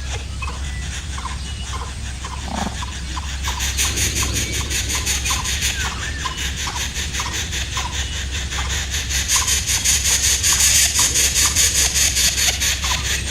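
Nestling birds begging: rapid, high-pitched squealing calls that grow louder and more insistent from a few seconds in, with a short chirp repeated every half second or so.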